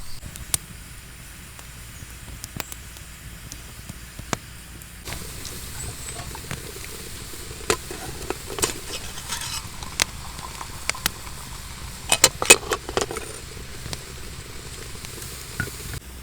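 Campfire cooking: a soft steady sizzle and hiss with scattered sharp crackles and clicks, and a burst of them about twelve seconds in.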